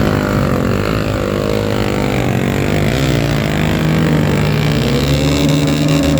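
Off-road trail motorcycle engines revving, the pitch rising and falling repeatedly as the throttle is worked.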